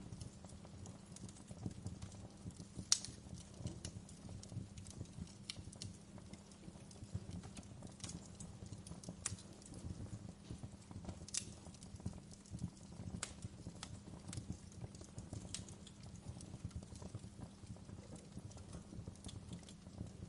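Wood fire crackling: irregular sharp pops and snaps over a steady low rumble, the loudest pop about three seconds in.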